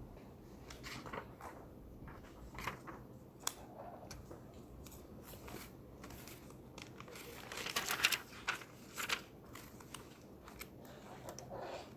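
Library reading-room ambience: scattered small clicks and taps from people at the desks, with a brief louder burst of rustling, like paper or a plastic wrapper being handled, about eight seconds in.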